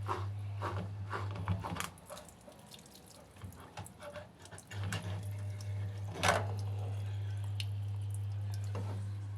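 Water dripping and splashing during work on a washing machine's blocked drain, over a steady low hum that drops out about two seconds in and returns about five seconds in. A single sharp knock comes about six seconds in.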